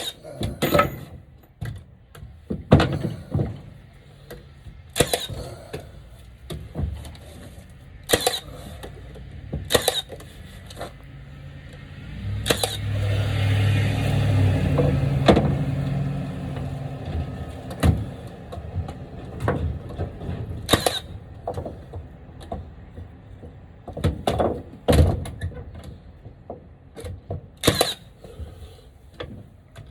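Scattered sharp knocks and clacks of plywood, lumber and hand tools being handled. About twelve seconds in, a steadier noise with a low hum runs for a few seconds.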